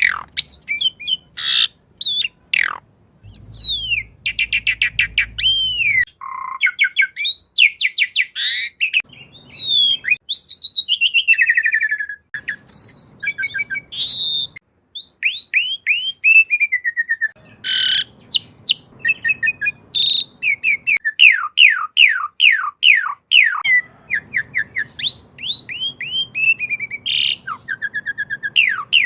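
Asian pied starling singing: a varied, continuous run of loud whistles, chirps and fast downward-slurred notes, with quick trills broken by short pauses.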